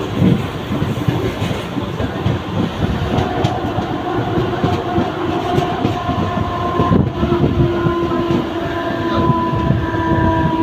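Mumbai local electric train running on the rails, with a steady clatter and rumble. A steady whine of several tones joins from about three seconds in and grows louder toward the end.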